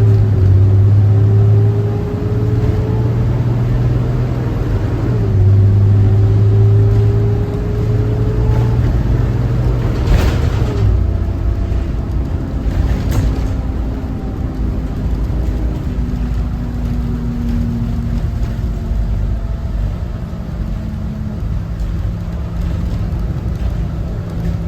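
Cummins ISB 6.7 inline-six turbo-diesel of a Thomas Saf-T-Liner C2 school bus under way. While the bus accelerates, a whine climbs in pitch and drops back at two upshifts, about five and eleven seconds in. After that the engine eases and its pitch falls slowly. Two short sharp knocks come about ten and thirteen seconds in.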